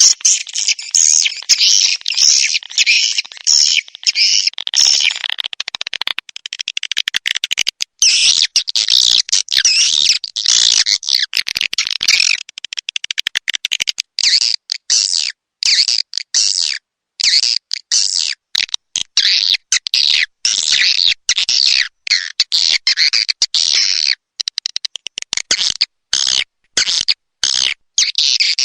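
Recorded swiftlet calls used as a lure sound for swiftlet houses: dense, high-pitched chirping and twittering, chopped by many brief silent gaps that come more often in the second half.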